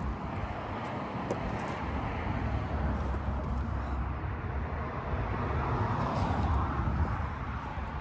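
Road traffic noise: a steady rumble of passing vehicles that swells around six seconds in as one goes by, then eases.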